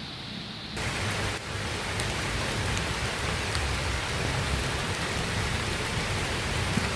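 Heavy rain pattering steadily on a surface, with scattered drops ticking; the downpour cuts in suddenly a little under a second in, after a quieter hiss.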